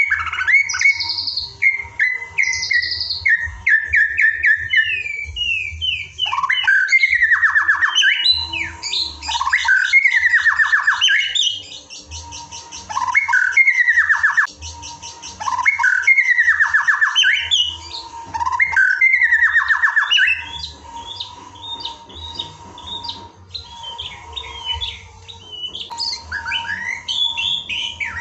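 White-rumped shama (murai batu) singing a varied song: loud whistled and slurred notes mixed with fast rattling trills, in phrases a second or two long with short pauses between them. A faint steady tone and low hum run underneath.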